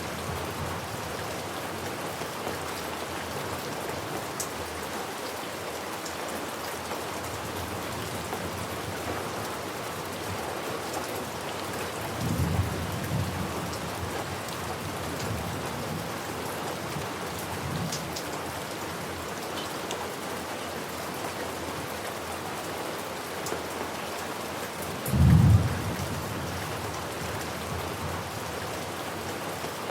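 Steady rain with thunder: a short low rumble about twelve seconds in, a fainter one a few seconds later, and a louder rumble about 25 seconds in.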